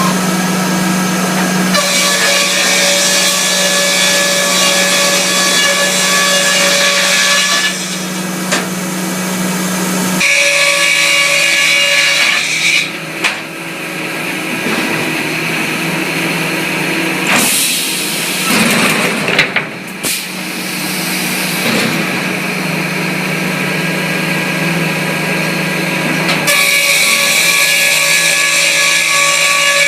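Band sawmill and edger machinery running steadily: a loud drone with several whining tones that changes pitch and character about two seconds in, again about ten seconds in, and near the end, with a rougher, noisier stretch in the middle.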